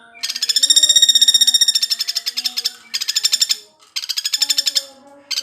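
Common flameback woodpecker (pelatuk bawang) calling in rapid rattling trills of quickly repeated high notes: one long trill of about two and a half seconds, then three shorter ones with brief gaps between.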